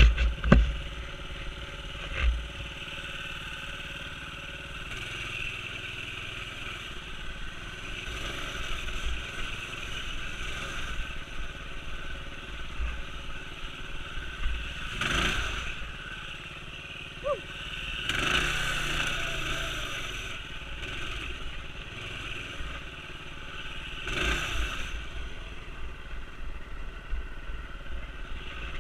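Minibike's single-cylinder engine running and revving in repeated surges, loudest about halfway through and again near the three-quarter mark, with scattered clatter and low thumps from the bike being ridden.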